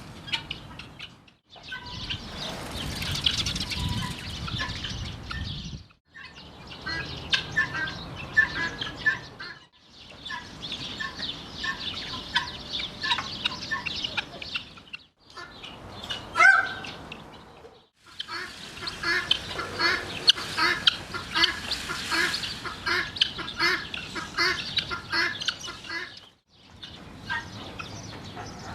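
Birds chirping and clucking, in several short stretches that cut off abruptly. One louder call about sixteen seconds in.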